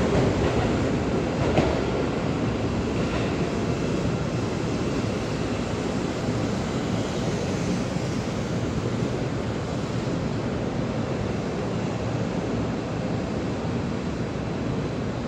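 Seibu Railway electric commuter train rolling slowly along the station platform, a steady rumble of wheels and running gear, with one sharp click about a second and a half in.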